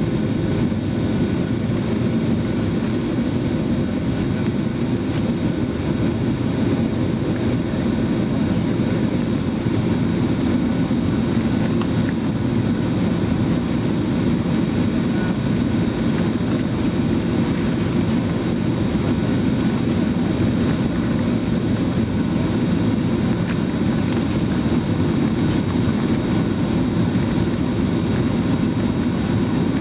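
Steady cabin noise inside a Boeing 737-900ER in flight: a low, even rush of airflow and CFM56 turbofan engine noise, with no change in pitch or level.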